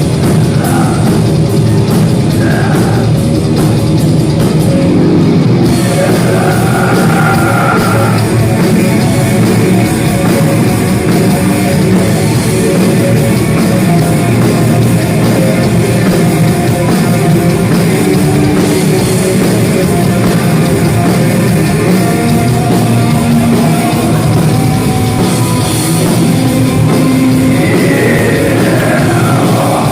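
Loud heavy metal played live: distorted electric guitars, bass and drum kit going without a break, with some singing.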